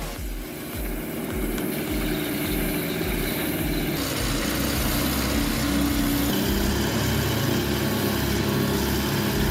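Off-road vehicle engine running, its note changing about four seconds in.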